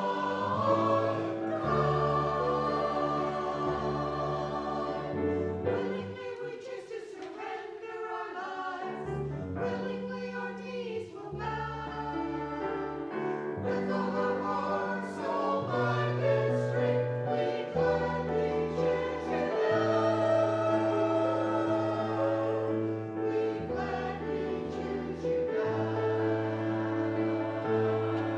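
Choral music: a choir singing slow, held chords, the bass note changing every couple of seconds.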